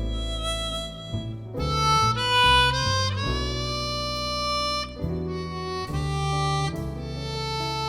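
Chromatic harmonica playing a slow, held melody, one sustained note after another, over an accompaniment of moving low bass and chord notes.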